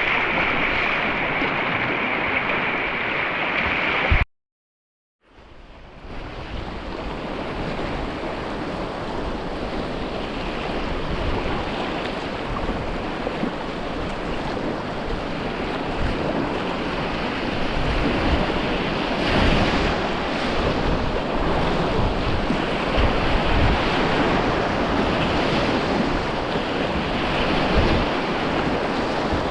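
Rushing river water with wind buffeting the microphone. The sound cuts out completely for about a second, some four seconds in, then comes back and carries on steadily.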